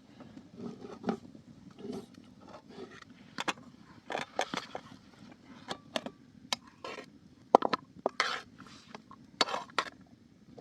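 Irregular knocks, clicks and short scrapes, a dozen or so, spaced unevenly and loudest a little past the middle.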